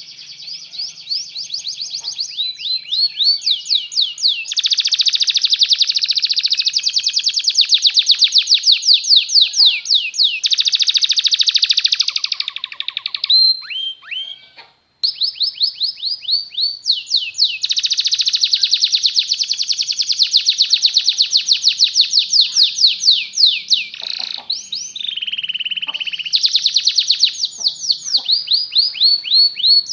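Canary singing a long song of fast trills, each a rapid run of repeated high notes that changes to a new trill every second or two, with a brief break about halfway through.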